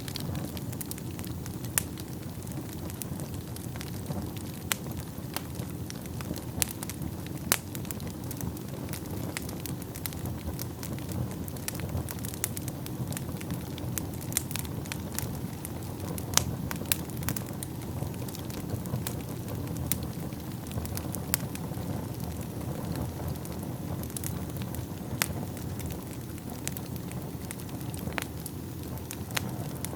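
Wood fire burning in a fireplace: a steady low rumble of flames with scattered sharp crackles and pops at irregular moments.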